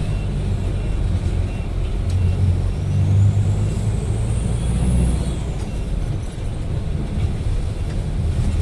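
Low, steady rumble of a running road vehicle, with a faint high whine that rises and then falls about halfway through.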